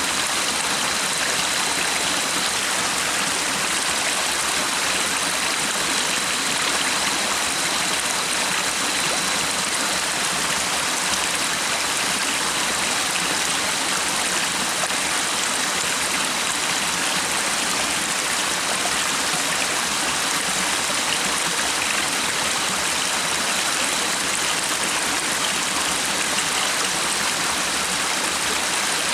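Stream water flowing with a steady, even rushing sound that does not change.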